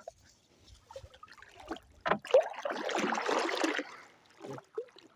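Water splashing and trickling beside a wooden canoe, with a few light knocks on the hull; the splashing rises about two seconds in and lasts under two seconds.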